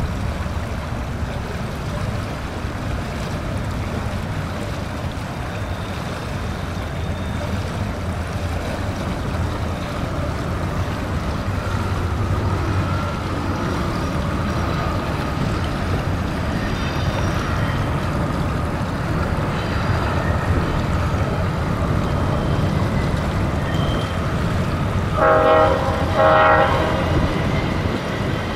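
Canadian Pacific diesel freight train rumbling as it rolls across a steel trestle, over the steady rush of the river. About 25 seconds in, the locomotive horn sounds two short blasts, the loudest sound here.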